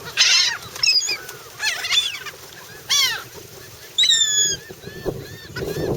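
A flock of seagulls calling over and over while being fed bread, with loud, sharp cries about once a second, some overlapping.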